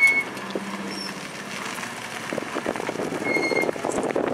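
Renault 5 Turbo rally car's turbocharged four-cylinder engine running at low speed as the car rolls slowly past, with a sharp bang at the very beginning.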